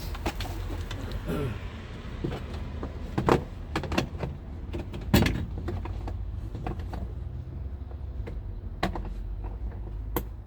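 Scattered clicks and knocks of hands working inside a car door, plugging in the lock actuator's electrical connector and refitting the latch parts, with two louder knocks a few seconds in.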